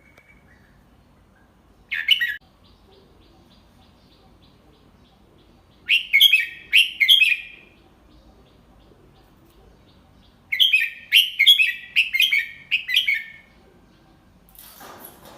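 Red-whiskered bulbul singing: a short call, then a phrase of a few quick whistled notes, then a longer run of rapid notes. A brief rustling noise comes near the end.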